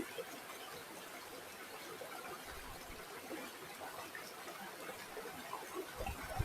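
Shallow river water flowing and trickling in a steady babble of small bubbling splashes, with brief low rumbles about two and a half and six seconds in.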